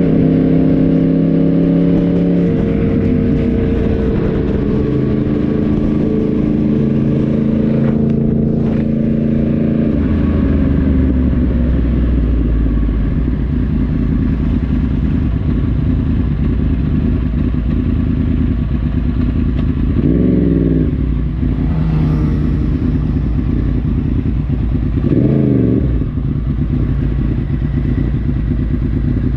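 Yamaha YZF-R1 crossplane inline-four motorcycle engine heard on board while riding. It holds steady revs, stepping in pitch, for the first ten seconds or so, then drops to a low rumble. In the second half the revs briefly rise and fall twice.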